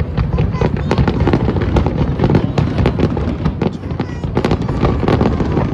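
Aerial fireworks going off in a rapid, continuous barrage. Many bursts and crackles overlap over a steady low rumble of booms, with no pause between them.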